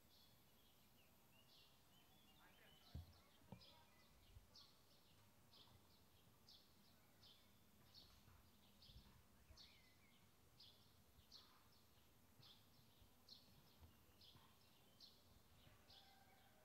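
Faint outdoor ambience with a bird calling over and over: short high chirps about once or twice a second. A couple of soft knocks come about three seconds in.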